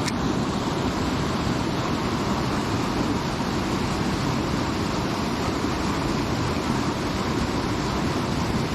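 Steady rushing of flowing creek water, an even wash of noise with no breaks.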